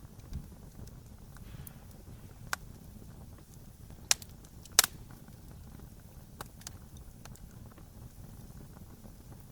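Wood fire burning with a low steady rumble and a few sparse, sharp pops and crackles, the two loudest about halfway through.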